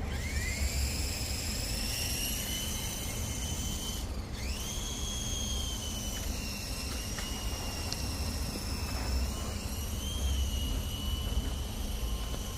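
Small electric motor of a toy R/C helicopter whining as the rotors spin up, the pitch rising at the start. It cuts out briefly about four seconds in and spins up again, then holds a steady high whine that wavers slightly, over a low rumble.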